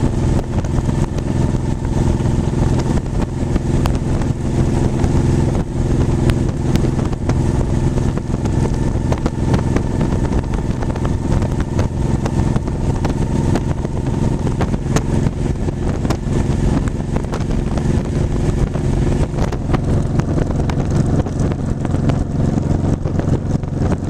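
Motorcycle engine running at a steady pace while riding, with its even hum unchanging in pitch, over road and wind rumble.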